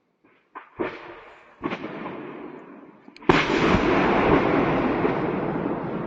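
Secondary explosions of ammunition cooking off in a burning ammunition depot. A few small cracks are followed by two sharp blasts about a second apart. About three seconds in comes a much louder explosion, followed by a long noisy rumble that slowly fades.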